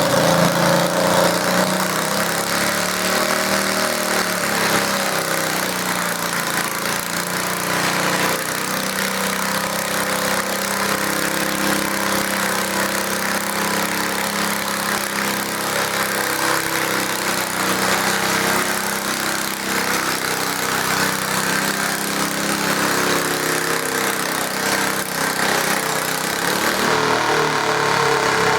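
Small garden tractor engine running hard and continuously, its pitch wavering as it works, typical of a tractor pulling a weight sled.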